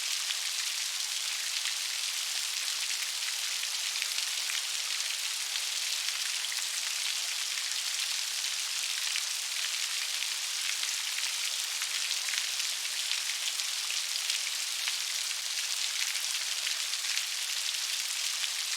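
Steady rain falling on leaves: an even hiss made of many small drop impacts, mostly high-pitched, with no change in strength.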